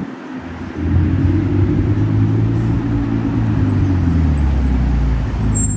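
A car engine running at a steady low speed, coming in loudly about a second in.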